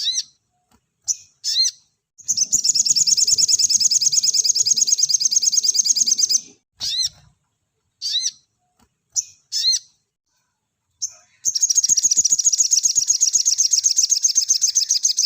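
Sogon songbird singing its dense, rapid 'nembak' song: a few sharp, high single chirps, then a fast trill of about four seconds. More single chirps follow, then a second long trill from a little after the middle.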